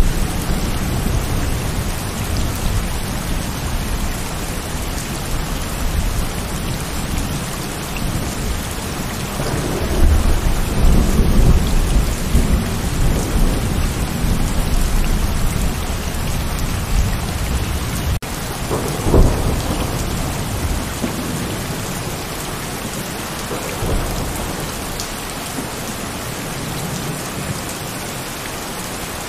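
Heavy rain falling steadily, with thunder rumbling low underneath and swelling several times. A louder, sharper thunderclap comes about two-thirds of the way through.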